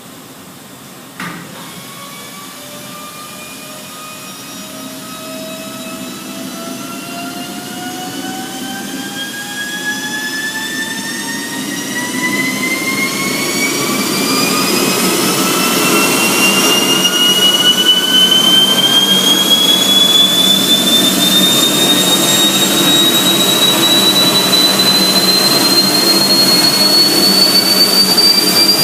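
An engine on test spooling up: a click about a second in, then a whine that climbs steadily in pitch and grows louder throughout, over a steady lower hum.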